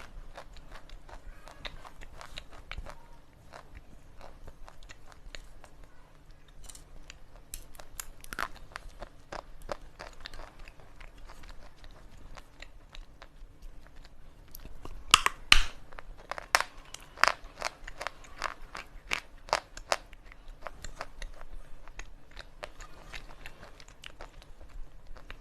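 Pieces of slate pencil being bitten and chewed close to the microphone: a long run of crisp, separate crunches and snaps, the loudest bites coming about fifteen seconds in.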